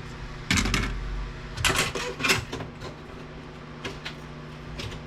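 Clatter and knocks of circuit boards and small metal and plastic parts being handled and set down during disassembly of a DVD player, in two bunches about half a second and two seconds in, with lighter clicks after. A steady low hum runs underneath.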